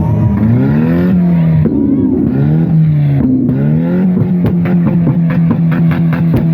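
Vehicle engine being revved with a loud rumble: it climbs in pitch, holds and drops back twice, then holds at a steady raised speed.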